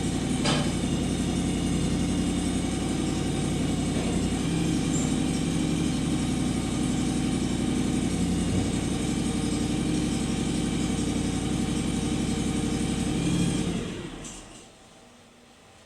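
John Deere X728 garden tractor's V-twin engine running steadily, its pitch shifting a little now and then. About two seconds before the end it is shut off and dies away over a second or so.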